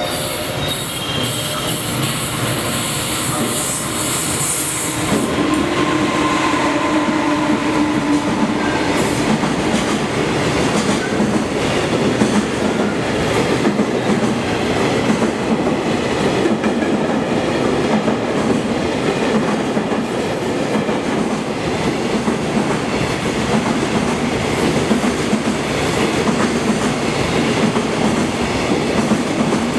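Freight train of container wagons running past close by: a continuous loud rumble of steel wheels on rail with a clickety-clack over the rail joints. A high squeal at the start stops about five seconds in.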